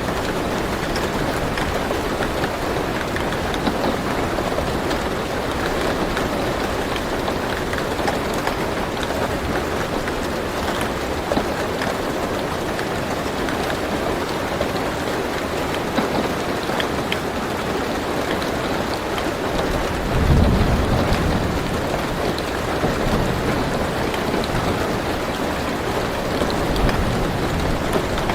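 Steady rain falling on a car roof, heard from inside the car. About two-thirds of the way through, a low rumble of thunder swells briefly.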